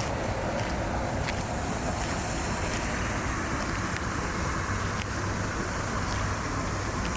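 Steady outdoor rushing noise with a few faint ticks, and a low vehicle hum coming in about five seconds in.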